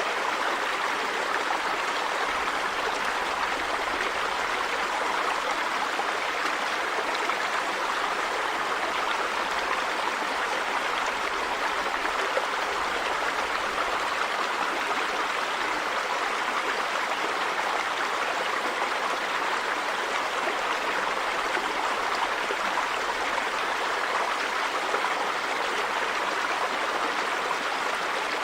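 River water running and splashing over stones in a steady, even rush.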